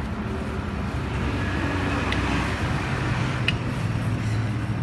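Road traffic going by, one vehicle swelling and fading as it passes, with a short light click about three and a half seconds in.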